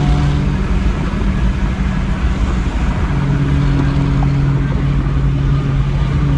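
Car travelling at highway speed: steady road and wind noise with a low engine drone at one pitch, which fades out about half a second in and comes back about three seconds in.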